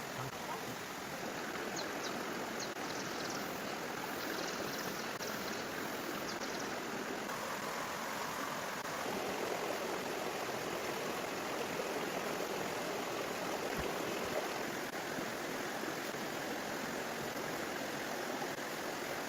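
Steady rushing of flowing water, like a forest stream, with a few faint high-pitched chirps a couple of seconds in.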